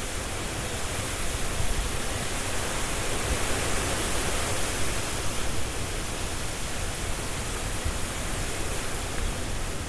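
Strong wind rushing through trees and rustling their leaves, a dense steady noise that swells and gusts a little around the middle.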